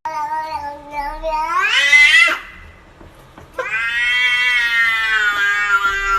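Domestic cat giving two long, drawn-out meows. The first rises in pitch over about two seconds; after a short pause, the second is held long and steady.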